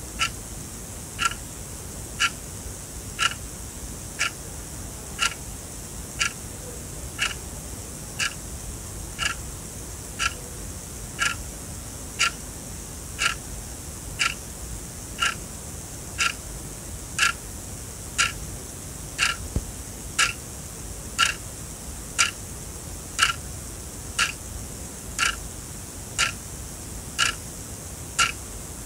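Sonam quartz alarm clock ticking, one sharp tick each second as the second hand steps.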